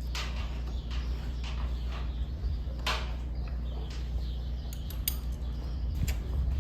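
Metal clinks and clatters, a few sharp ones about three, five and six seconds in, over a steady low machine hum.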